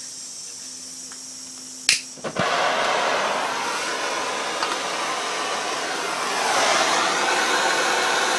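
Electric heat gun: a faint hiss and hum, a couple of switch clicks about two seconds in, then the gun blowing steadily at full power, swelling slightly near the end. It is being used to heat a seized nut so that it will come loose.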